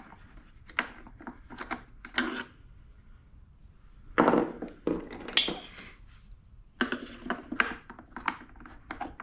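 Scattered knocks and clatter of tools and small plastic and metal parts being handled during disassembly of a pancake air compressor, with louder bunches of clatter about four seconds in and again near the end.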